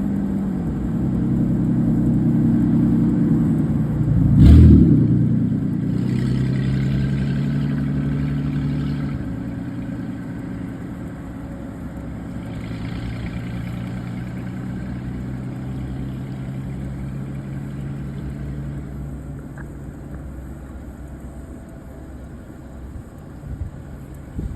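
A motor vehicle engine running steadily, its pitch shifting a few times and slowly fading, with a loud low thump about four and a half seconds in.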